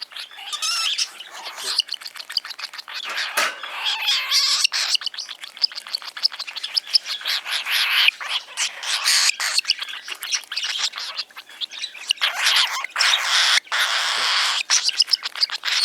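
Cockatiel chirping in a rapid, continuous stream of short high calls.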